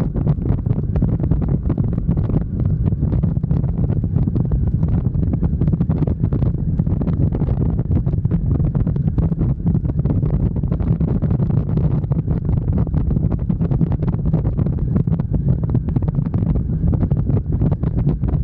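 Motorcycle under way at a steady pace: a steady low engine rumble mixed with wind buffeting the microphone.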